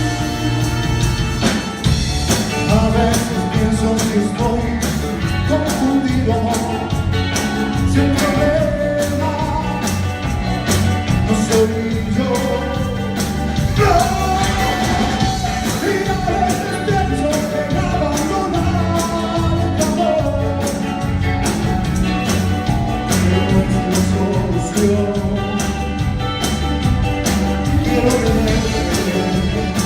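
Cumbia band playing live: a wavering melody line over a steady bass and regular percussion beat.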